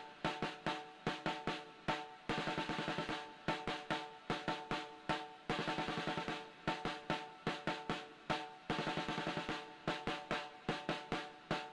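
Instrumental song intro led by a drum kit: rapid snare hits and rolls with bass drum, over a sustained held chord, breaking off briefly about every three seconds.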